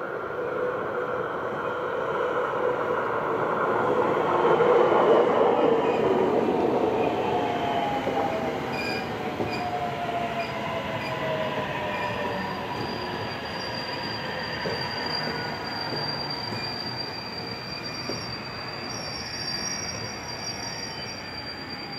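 JR West 521 series electric multiple unit running close past, loudest about five seconds in. A whine from the traction motors falls in pitch as the train slows. A thin high squeal holds through the second half.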